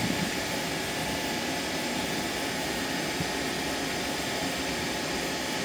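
Car air-conditioning blower running: a steady, even rush of air.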